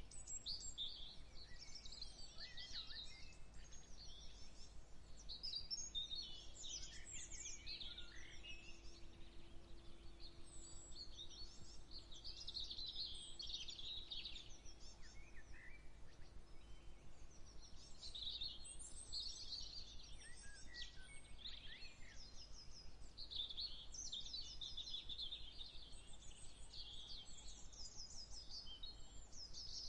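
Several songbirds singing and calling at once, a dawn chorus of overlapping chirps, trills and quick repeated notes, over a faint steady low hum.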